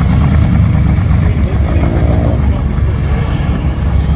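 Car engine running nearby with a steady low exhaust rumble.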